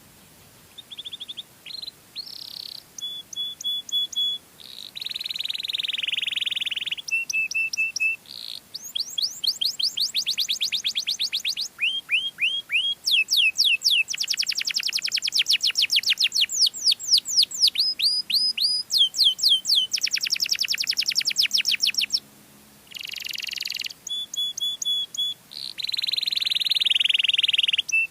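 Domestic canary singing: a long, varied song of rapid repeated trills and quick falling whistles in changing phrases, with a brief pause about three-quarters of the way through.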